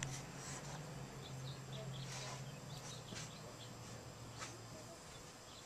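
Small birds chirping faintly now and then, over a low steady hum that fades out about four and a half seconds in, with a few soft clicks or rustles.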